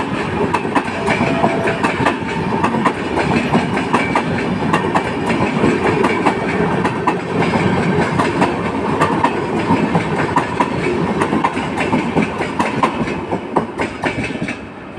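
Train hauled by a WAP-7 electric locomotive running past, its wheels clattering over the rail joints in a fast, uneven stream of clicks over a steady rumble. The sound drops away just before the end.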